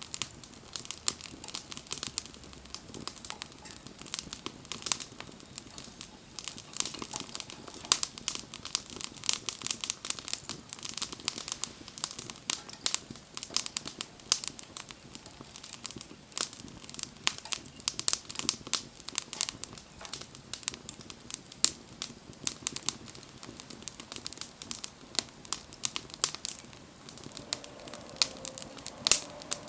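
Wood fire crackling, with dense, irregular sharp pops and snaps throughout.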